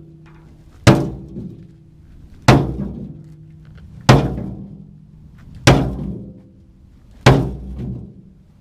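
Sledgehammer striking the tractor's steel loader bucket: five heavy blows about a second and a half apart, each leaving a short metallic ring. The bucket, thin and corroded, is being hammered straight where it is bent.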